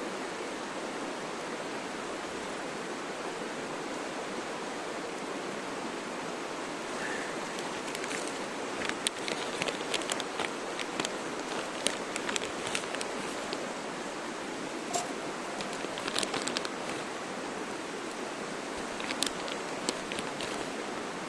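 A campfire crackling and popping, with sharp irregular pops scattered over the second half, over a steady rushing noise.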